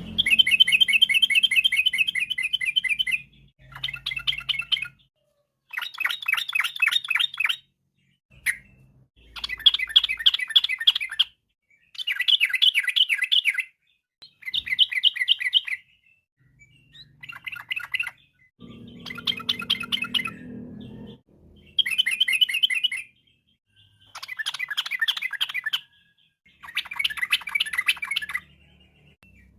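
Yellow-vented bulbul (trucukan) singing: about a dozen short phrases of rapid notes, each one to three seconds long, with brief pauses between them.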